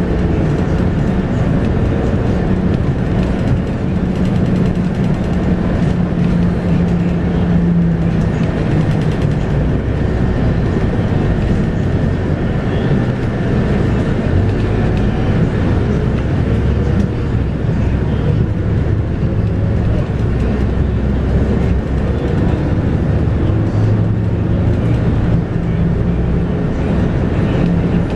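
Scania K230UB bus under way, its 8.9-litre five-cylinder Scania DC9 diesel running behind a ZF Ecomat automatic gearbox, heard on board. The engine note is steady at the start and near the end, with a slowly rising whine through the middle.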